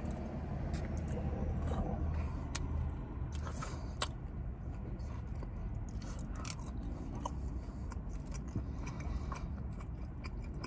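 Close-up eating sounds: chewing with wet mouth clicks and scattered small taps of chopsticks and a foam takeout container, over a steady low hum that is strongest in the first few seconds.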